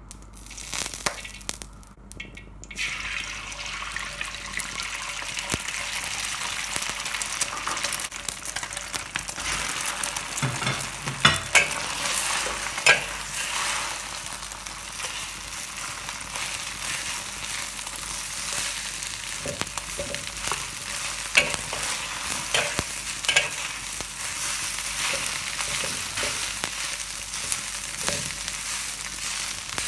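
Egg and rice sizzling in hot oil in a wok. The sizzle starts about three seconds in and keeps up steadily. A metal spatula scrapes and knocks sharply against the wok several times as the rice is stir-fried.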